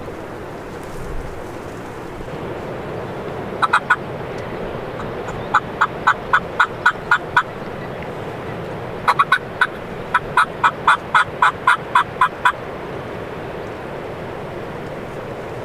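Turkey yelping in three runs of short, evenly spaced notes: three about three and a half seconds in, about eight from five and a half seconds, and a longer run of about fourteen from nine seconds, over steady wind noise.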